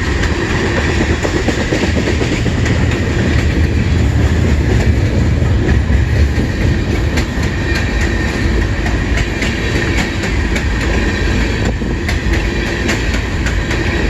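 CN train rolling past at close range: a loud, steady, heavy rumble with the clickety-clack of wheels over the rail joints.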